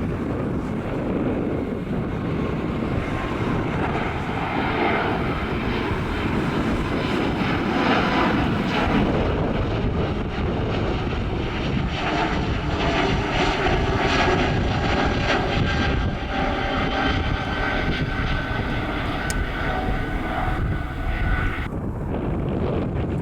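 Airliner's engines passing the airport fence, a rising whine of steady high tones over a low rumble that cuts off sharply about twenty-two seconds in. Wind buffets the microphone throughout.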